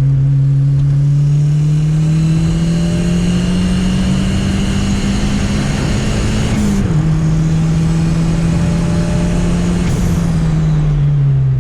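Turbocharged Chevrolet Chevette engine accelerating hard. Its pitch climbs for about six seconds, drops sharply at a shift, climbs again and falls away near the end, with a high whine over it from a turbo that the driver takes to be breaking.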